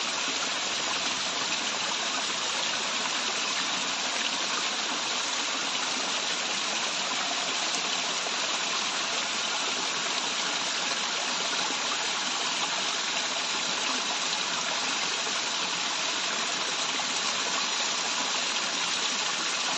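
Waterfall, water falling and running in a steady, unbroken rush.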